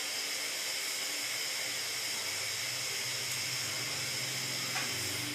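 Steady hiss of a stove heating a pot of water for rice, with a low hum joining about two seconds in.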